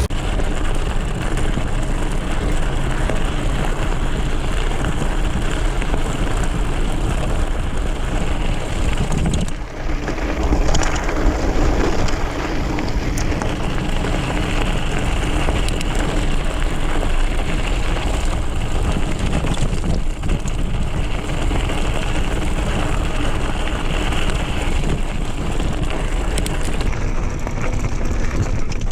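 Loud, steady wind buffeting on the microphone of a camera riding along on a moving mountain bike, mixed with the noise of the bike rolling over the trail. The noise dips briefly about ten seconds in.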